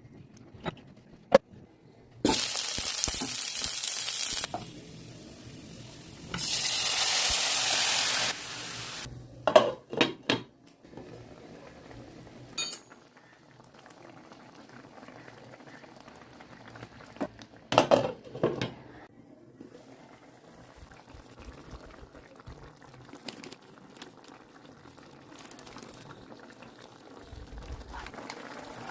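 Chicken curry cooking in a pan: two loud stretches of sizzling frying, each cutting off suddenly, then clinks and scrapes of a utensil stirring, over a quieter bubbling simmer.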